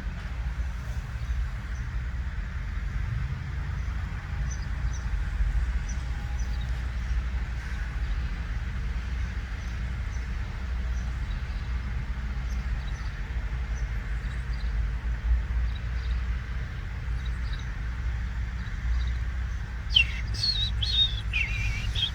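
Small birds chirping, faint and scattered at first, then a burst of louder, quickly falling calls near the end, over a steady low rumble.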